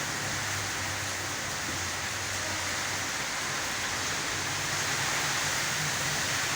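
Heavy rain pouring in a windstorm, a steady rushing noise.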